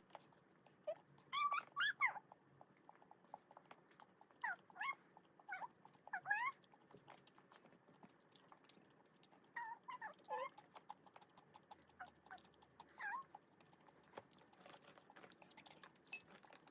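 A dog whining in short, high, squeaky rising and falling cries, in several clusters a few seconds apart.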